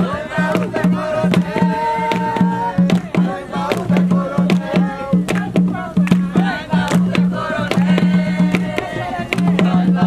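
Jongo hand drums beaten in a fast, steady rhythm, with voices singing over them.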